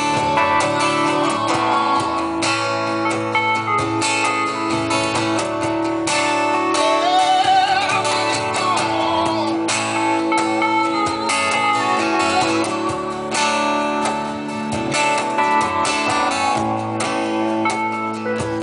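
Live band music with strummed acoustic and electric guitars at the front, played steadily through, with a wavering melodic line rising over it about halfway through.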